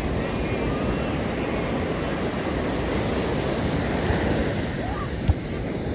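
Ocean surf washing onto a sandy beach, a steady rush of breaking waves. A few faint high chirps come in the first second, and a single short knock comes about five seconds in.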